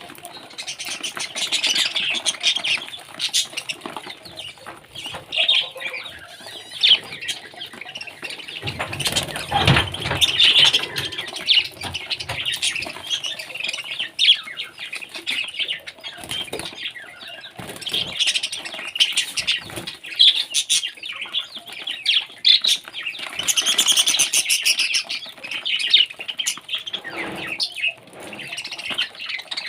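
Pet parrot busy with spinach leaves: irregular rustling and crackling of leaves and feathers, mixed with short chirps.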